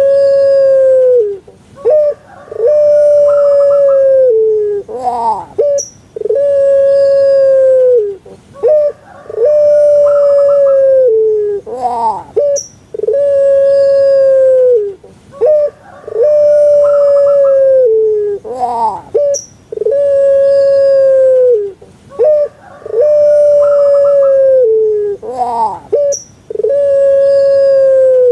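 Puter pelung dove (Streptopelia risoria) cooing over and over. Each call is a short rising note and then one long, drawn-out coo that drops at the end, repeating about every three and a half seconds.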